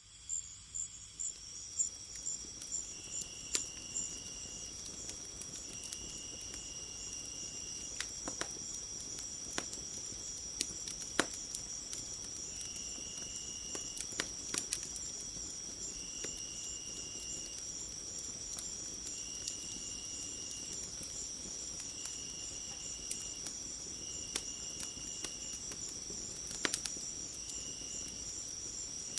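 Crickets trilling steadily in a high chorus. A lower, even call about a second and a half long repeats every few seconds, and sharp pops and crackles of a wood fire come at scattered moments.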